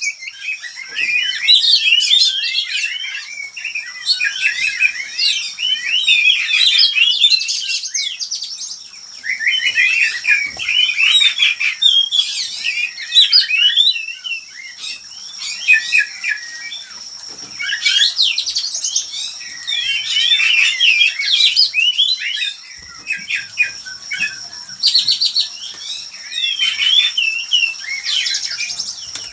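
Oriental magpie-robins (kacer) in a breeding aviary, giving a dense run of varied chirps, whistles and song phrases with short pauses. A steady high-pitched tone runs underneath.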